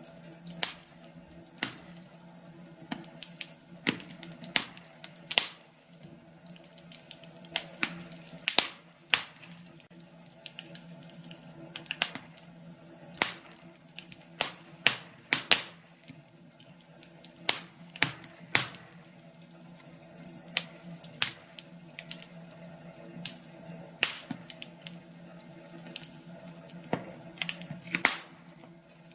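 Wood fire crackling, with irregular sharp pops and snaps over a faint steady hum.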